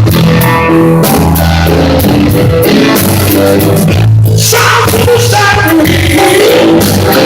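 Blues-rock band playing live during a sound check: electric guitar, bass and drums, with a voice singing over them.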